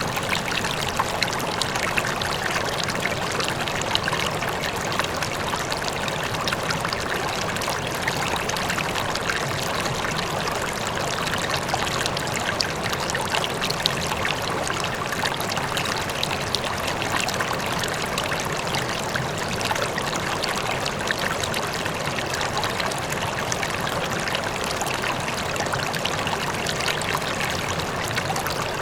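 River water flowing steadily over rocks with splashing and trickling, with a faint waterfall in the distance.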